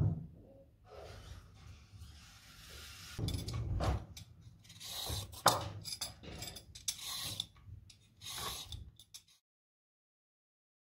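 Irregular rubbing, scraping and clicking of hands working with kitchen things, which cuts off to dead silence about nine seconds in.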